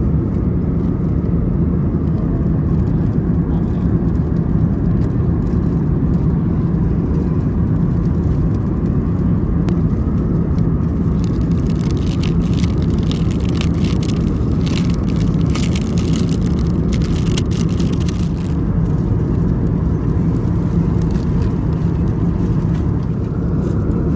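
Steady cabin roar of an Airbus A321neo in flight, a dense low rumble with a steady hum under it, heard from inside the passenger cabin. For several seconds around the middle, light crackling clicks sound over the roar.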